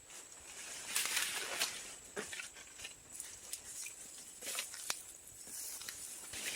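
Irregular rustling and crackling with a few sharp snaps, busiest about a second in and again past the middle.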